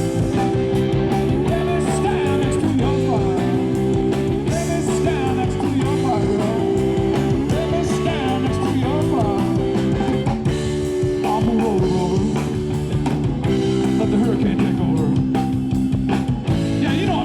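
Rock band playing, with sustained electric guitar chords, a wavering lead line above them and singing.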